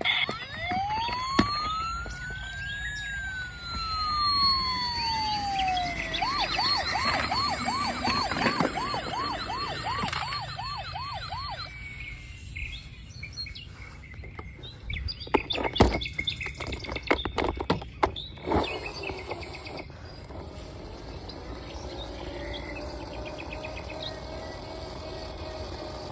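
Toy police car's electronic siren: one slow wail rising and falling, then a fast warbling yelp of about three cycles a second that stops about halfway through. It is followed by a few sharp plastic clicks and knocks, and a faint steady hum near the end.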